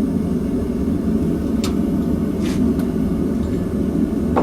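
Forge running with a steady low rushing noise, with a couple of faint light clinks over it.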